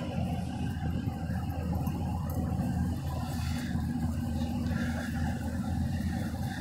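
Semi truck's diesel engine running with a steady low hum.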